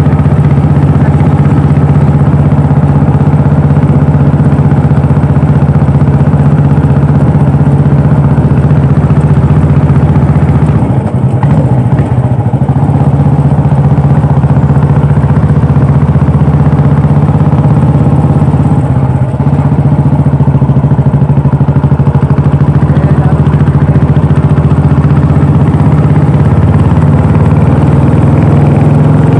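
Royal Enfield Classic 350 single-cylinder engine and exhaust running steadily while riding, easing off briefly twice along the way.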